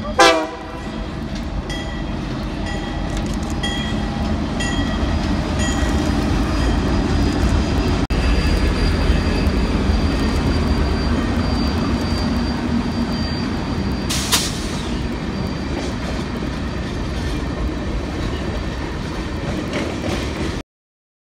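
Canadian National freight train passing close by: diesel locomotives rumbling past, then a string of tank cars with the wheels clattering on the rails. A faint, steady, high wheel squeal runs through the middle, and a single sharp bang comes about two-thirds of the way through.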